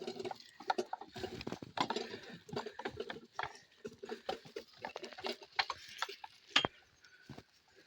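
Irregular clattering: a jumble of short clicks and knocks at uneven intervals, with no engine running.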